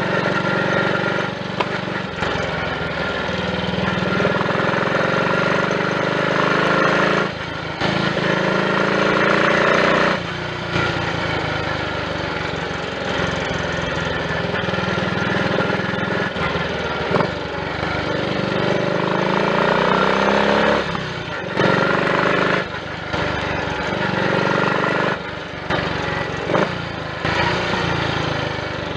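Triumph Tiger Cub's small single-cylinder four-stroke engine running under way on the road, its pitch rising as it picks up speed, with several brief drops in level. It runs without misfiring on a newly fitted carburettor slide, needle, needle jet and main jet.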